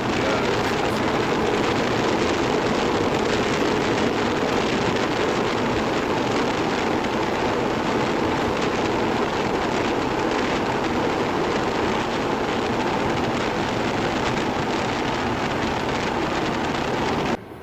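Steady road, engine and wind noise inside a motorhome's cab while it is driven. It cuts off suddenly near the end.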